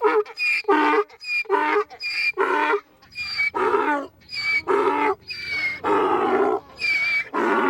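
A wild animal calling over and over: pairs of short pitched calls, a brief higher one followed by a longer one, repeated about seven times.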